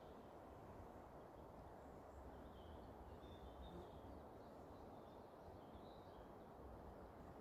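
Faint bird chirps, a loose string of short high notes from about two to six seconds in, over a quiet outdoor background hiss.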